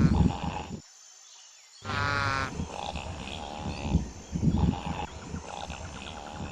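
Wild animal calls: repeated low rough calls mixed with short, higher-pitched calls. They break off into a second of silence about a second in, then carry on.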